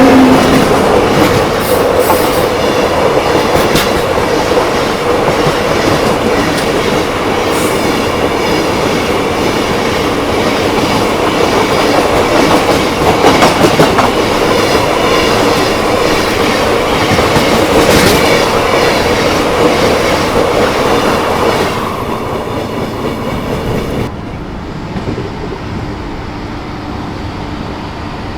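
Passenger express train running on the rails: wheels clattering and a steady hum. The noise drops noticeably about three-quarters of the way through and again a couple of seconds later.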